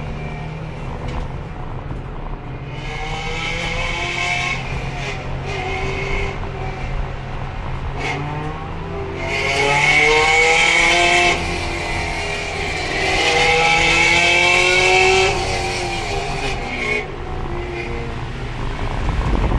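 Race car engine heard onboard, its revs rising and falling without gear changes because the broken transmission is held in 4th gear. A high, steady squeal comes in three stretches over it, the tires squealing through corners.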